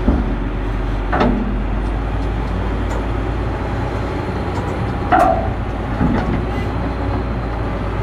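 Heavy diesel engines of a CAT 325D excavator and a CAT D300E articulated dump truck running steadily during a recovery pull, a deep rumble with a constant low hum. Brief louder sounds stand out about a second in and again about five seconds in.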